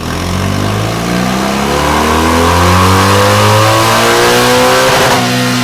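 BMW R1200GS flat-twin engine on a dyno, breathing through a Delkevic DL10 round carbon fibre end can. It revs up steadily under load for about five seconds, then the pitch drops suddenly near the end and holds steady.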